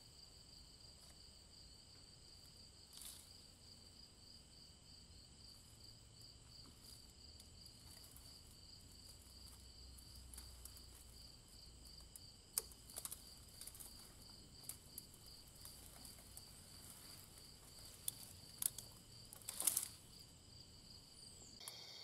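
Faint, steady high-pitched trilling of night insects such as crickets, with a few sharp clicks in the second half.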